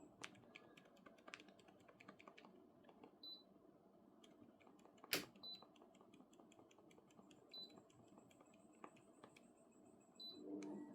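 Plastic remote-control buttons clicking faintly and repeatedly, with one sharper click about five seconds in. A few short high beeps come from the Daikin mini-split indoor unit, the sign that it is receiving each temperature change.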